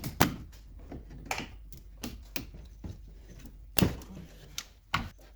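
Irregular clicks and knocks of hand tools and metal parts, with a few louder knocks about four and five seconds in.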